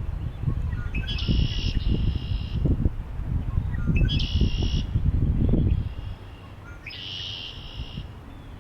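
Gusty wind rumbling on the microphone while a bird calls three times, about three seconds apart, each call a short rising note followed by a dense, buzzy phrase lasting about a second. The wind eases about six seconds in.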